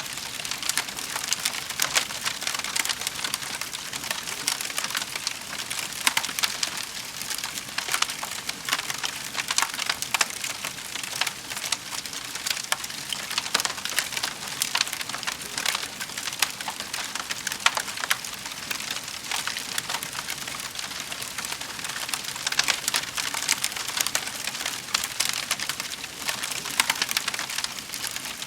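Wood fire burning in a fireplace, crackling steadily with many small sharp pops.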